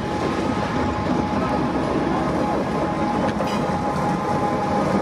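CPKC freight train rolling past at close range: a steady rumble of wheels on the rails, with a faint steady whine above it.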